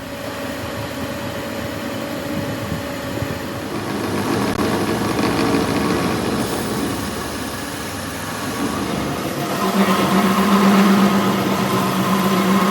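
A machine running steadily with a noisy mechanical sound; about ten seconds in, a steady hum comes up and it gets louder.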